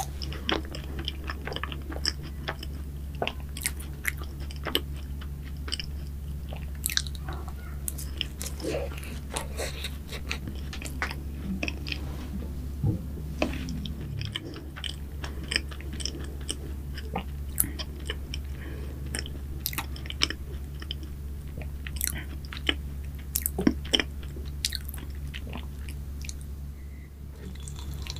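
Close-miked biting and chewing of a crisp croffle, with many sharp little crunches and crackles over the munching.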